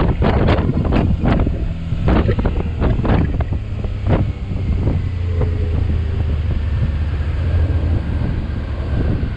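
Motorcycle engine running with a steady low drone under heavy wind rushing over the microphone, with sharp buffeting gusts crowded into the first few seconds.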